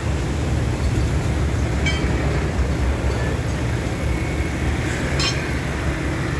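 Heavy truck engine running at a steady idle, with two short metallic clinks, about two seconds in and about five seconds in.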